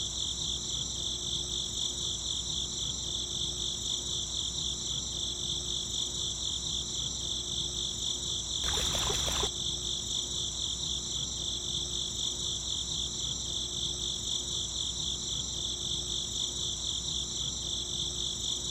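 Crickets chirping in a steady, dense chorus, pulsing finely and continuously. About nine seconds in, a brief burst of noise lasting under a second rises over it.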